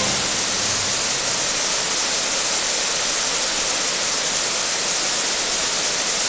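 Waterfall pouring into its plunge pool: a steady, even rushing of falling water.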